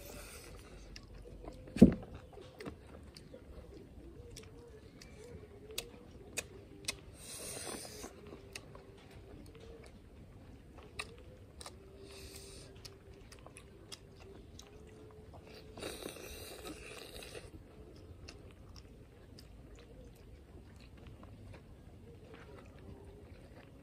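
Close-up chewing and biting of people eating with their hands, with scattered wet clicks, one sharp loud click about two seconds in, and two longer stretches of crunching, about seven and sixteen seconds in.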